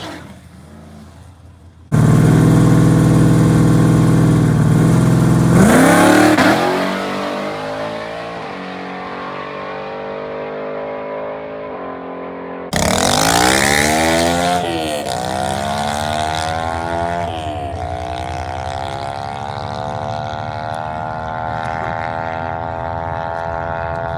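Drag-race cars' engines at high revs: a loud steady engine note that falls away, then, after a cut, engines accelerating, the pitch climbing and dropping back a few times as they shift up through the gears.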